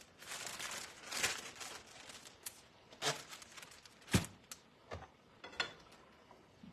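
Kitchen handling sounds while clearing away food scraps: a rustle, then a few sharp knocks and clatters, the loudest a little past the middle.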